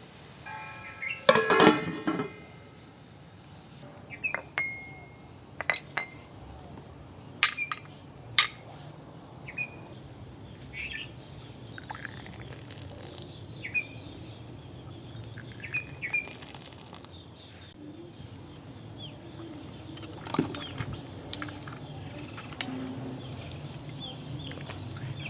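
Dishes and utensils clinking sharply several times, mostly in the first third, with small birds chirping now and then over a low steady background.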